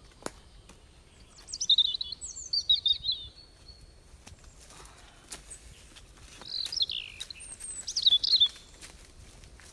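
A songbird singing two bursts of quick, jumbled high notes, about four seconds apart. A single sharp click sounds just after the start.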